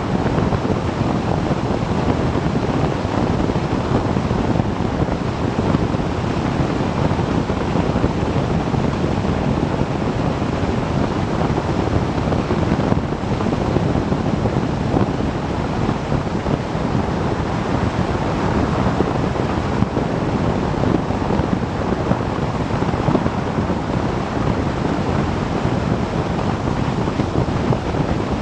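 Steady wind rush over the microphone of a camera riding on a moving motorcycle, an even roar with no distinct engine note standing out.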